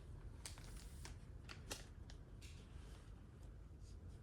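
Faint handling noise of paper comic books: a scattering of soft taps and rustles, the clearest about a second and a half in, over a low steady room hum.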